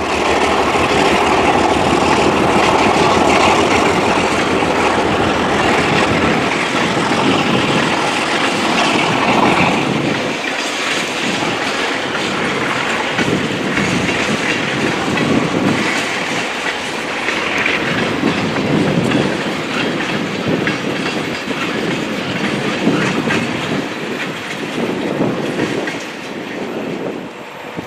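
Alco RS11 diesel locomotive, a 12-cylinder Alco 251 engine, running loud as it passes for about the first ten seconds, then a string of loaded propane tank cars rolling by with a steady clickety-clack of wheels over the rails.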